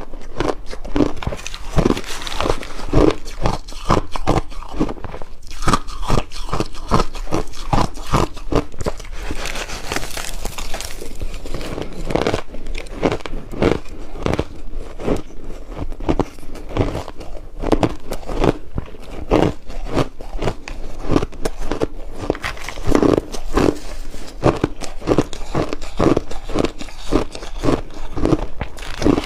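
Ice being bitten and crunched between teeth close to the microphone, in a rapid, steady run of crisp crunches, several a second.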